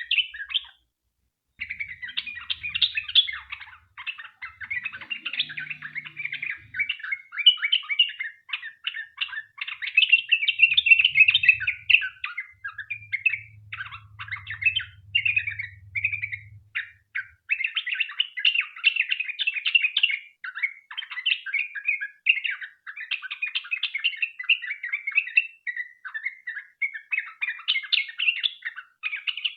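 Yellow-vented bulbul (trucukan) singing a long, rapid, unbroken run of chattering, bubbling phrases, the 'ropel panjang' song that keepers use as a lure, with a brief break about a second in.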